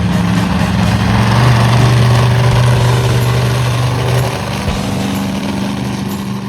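A vehicle engine running loudly and steadily, its pitch holding and then dropping about four seconds in.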